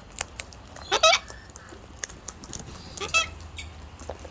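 Two short, harsh squawks from a cockatoo, about a second apart from the start and again about three seconds in, with scattered light clicks between them.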